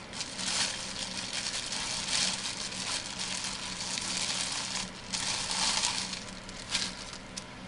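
Plastic bag crinkling and rustling in irregular bursts as a resin model truck body is unwrapped from it.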